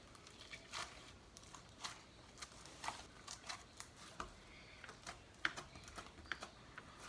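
Homemade baking-soda slime being kneaded and stretched by hand, giving faint, irregular sticky clicks and crackles, several a second.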